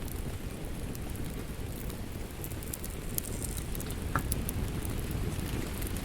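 Wood fire in a fireplace crackling: a steady low rumble of flames with many small, sharp pops scattered throughout, one stronger pop about four seconds in.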